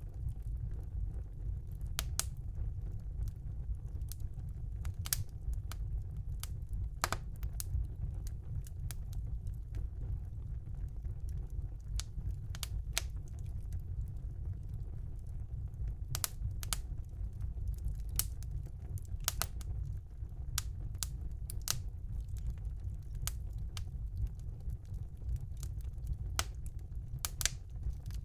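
Fire burning in a fireplace: irregular sharp crackles and pops, sometimes in quick pairs, over a steady low rumble.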